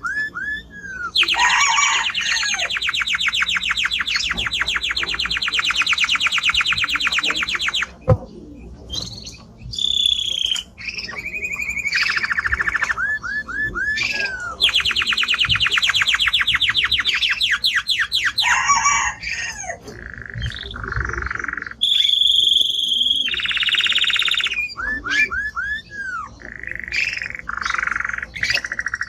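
Male Timbrado canary singing loudly: long, very fast trills of evenly repeated notes, one lasting about seven seconds and another about four, broken up by shorter phrases, held notes and quick downward swoops.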